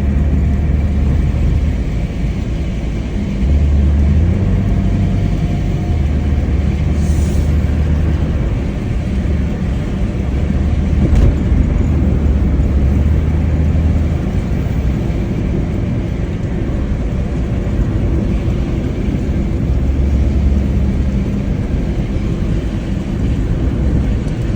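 Mitsubishi Lancer driving in heavy rain, heard from inside the cabin: a steady low engine and road drone that shifts in level every few seconds, over constant rain and wet-road noise.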